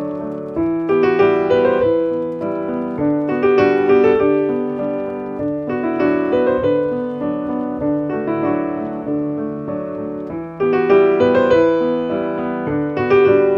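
Piano music: a melodic piano piece with notes struck and left to ring, swelling in phrases every few seconds.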